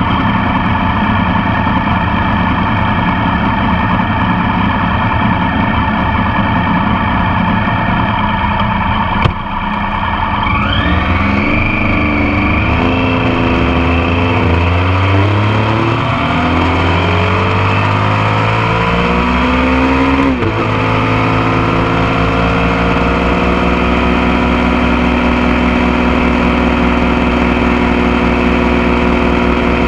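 Motorcycle engine heard close up from the passenger foot peg. It runs steadily, then after a sharp click about nine seconds in it climbs in pitch through several gear changes. A second click comes about twenty seconds in, and the engine then settles into a steady cruise.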